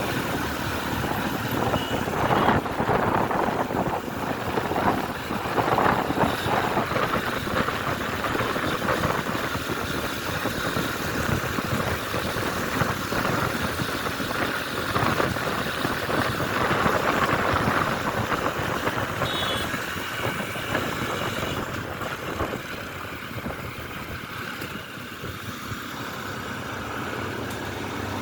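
Ride noise from a moving motorcycle: a steady rush of wind and road noise mixed with traffic, with no clear engine note.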